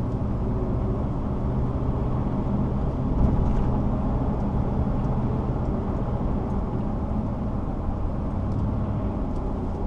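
Car driving along a road, heard from inside: a steady low engine hum with tyre and road noise.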